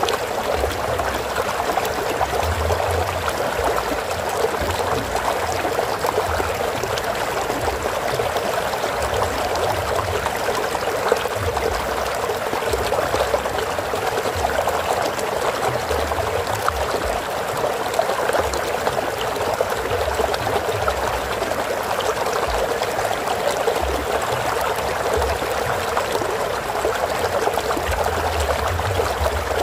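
Flowing stream water, a steady trickling and babbling rush.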